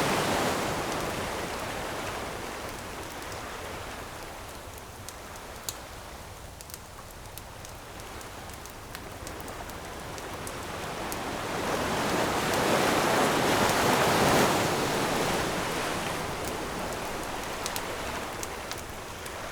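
Ocean surf washing onto the shore. One wave recedes at the start, the next builds up past the middle and peaks about three-quarters of the way through, then ebbs. Scattered sharp pops of a crackling wood campfire sound over it.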